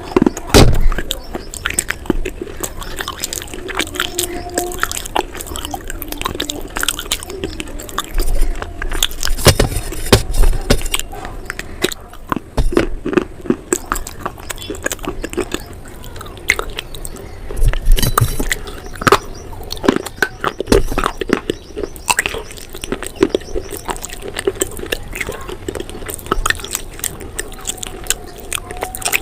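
Close-up crunching and chewing of a hard, brittle food, with sharp cracking bites coming in clusters; the heaviest bites land near the start, around a third of the way in, and again a little past the middle.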